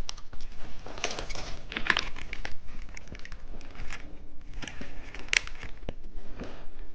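Plastic candy wrapper crinkling and tearing in irregular rustles and crackles as it is handled and opened.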